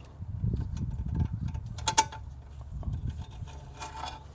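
Hand tools and metal parts scraping and clinking as a turbo's mounting fasteners are worked loose, with one sharp metallic clink about two seconds in.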